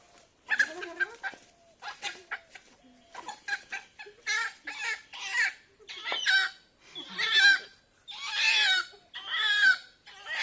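Domestic chicken squawking and clucking in a string of short harsh calls, which grow longer and louder after about four seconds.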